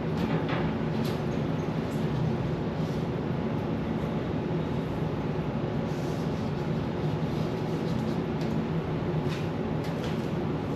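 Tap water running steadily into a sink while a fridge shelf is rinsed under it, with a few faint knocks and clicks of the shelf.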